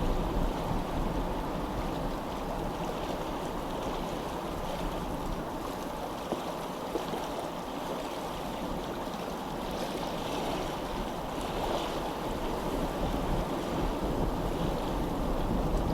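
Steady rushing of running water, an even continuous wash with a low rumble beneath it.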